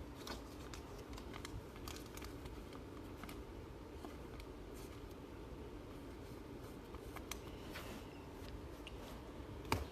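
Faint handling of trading cards and their packaging: scattered light clicks and rustles over a low steady room hum, with one sharper click near the end.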